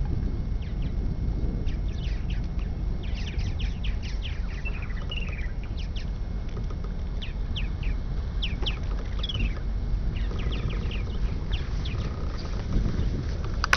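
Birds chirping in quick, short, high calls, many times over, against a steady low rumble.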